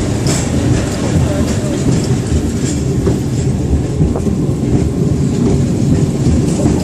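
Victoria Peak Tram, a cable-hauled funicular car, running along its rails: a steady low rumble with a few faint wheel clicks.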